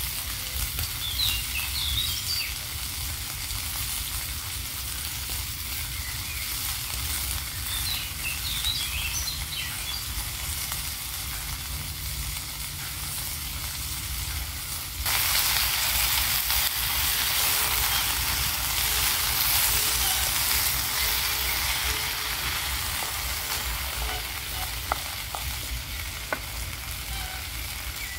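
Food sizzling in a frying pan over a wood fire: a steady hiss that suddenly grows louder about halfway through.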